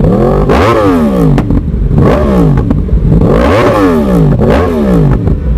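Yamaha R1 inline-four sport bike engine with a full-system Akrapovic exhaust, revved in sharp throttle blips: the pitch shoots up and falls back about four times, with some crackle on the overrun.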